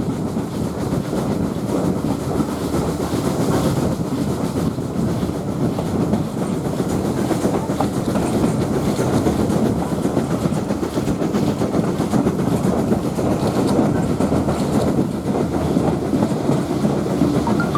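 A train running steadily along the line, with the continuous rumble and clickety-clack of wheels on the rails, as heard from on board a passenger carriage.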